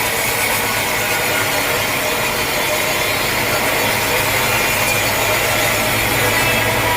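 Sawmill saw cutting steadily through a large log, with an unbroken grinding and rasping noise of blade in wood.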